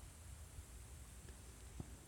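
Near silence: faint outdoor background with a low rumble and a steady faint hiss, and one small click near the end.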